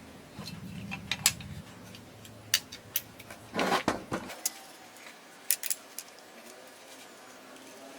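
Metal parts and tools handled on a workbench: a series of sharp clinks and knocks, with a brief low hum near the start and a short rattling scrape about halfway through.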